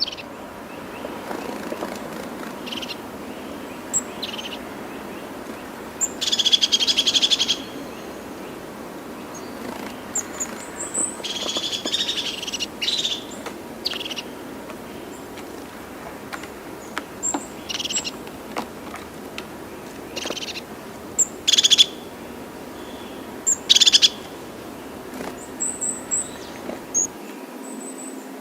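Birds calling and chirping: short high calls and chirps repeated at irregular intervals over a steady background hiss.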